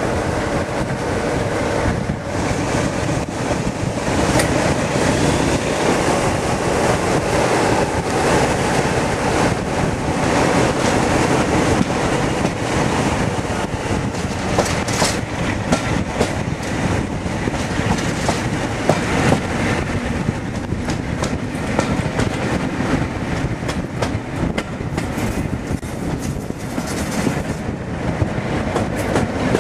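Diesel-hauled passenger train heard from an open carriage window: the locomotive's engine working hard under power, with wheels clattering steadily over the rail joints.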